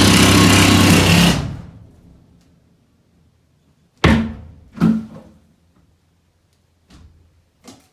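A power saw cuts through the box wall and stops about a second and a half in. Two sharp knocks follow about a second apart, then a few faint clicks.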